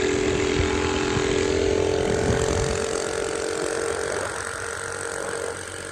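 Coleman mini bike's single-cylinder engine running steadily at speed on a test run, with a constant rush of noise over it; the sound eases off slightly near the end.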